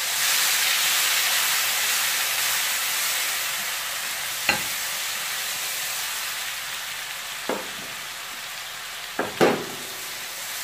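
Garlic-ginger paste sizzling in hot oil with cumin seeds while a slotted spatula stirs it in a pot. The sizzle is loudest at first and slowly dies down. There are four knocks of the spatula against the pot, the last two close together near the end.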